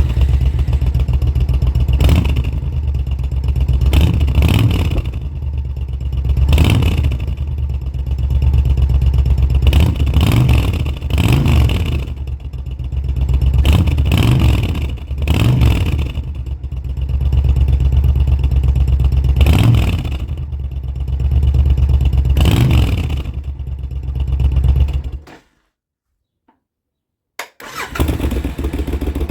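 Suzuki Intruder VS1400's V-twin engine, breathing through an adjustable aftermarket muffler, idling and being revved with repeated short throttle blips. The sound cuts out completely for about two seconds near the end, then the engine is heard idling steadily.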